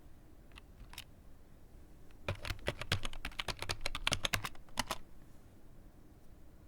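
Typing on a computer keyboard: two single key clicks about a second in, then a quick run of about twenty keystrokes lasting around two and a half seconds.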